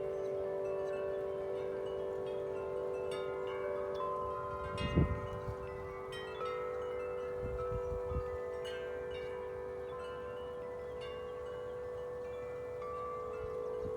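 Tuned metal wind chimes ringing in strong wind: deep tones sustain and overlap while higher tubes are struck again and again. Wind gusts buffet the microphone about five seconds in and again around eight seconds.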